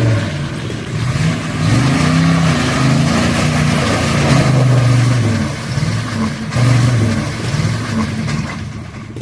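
Old 4x4 truck engine revving hard, its pitch rising and falling several times, then dying away near the end.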